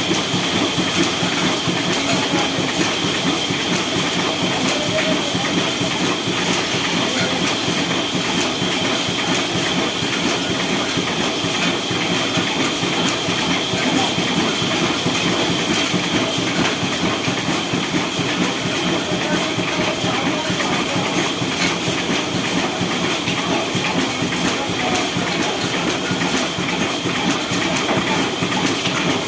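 Diesel engine running steadily, with a fast, even clatter and a steady high whine over it.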